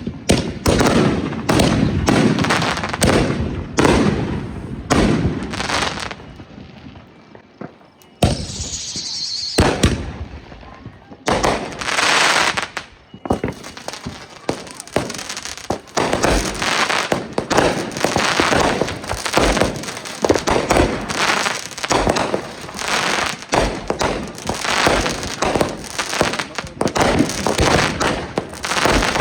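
Consumer fireworks going off: a rapid string of bangs and crackling pops. There is a short lull with a high hiss about six to eight seconds in, then dense popping through the rest.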